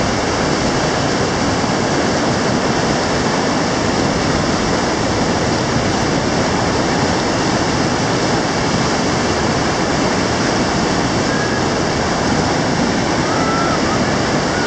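Whitewater river rapids rushing: a steady, even noise of churning water with no let-up.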